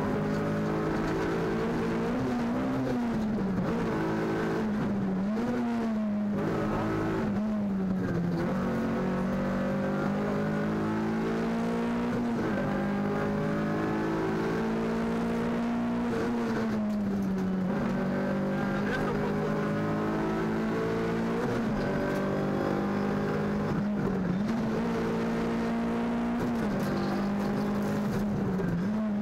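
VW Polo 1.4 rally car's four-cylinder engine heard from inside the cabin, running hard at high revs. The revs dip and climb again several times as the car lifts off and shifts through the stage.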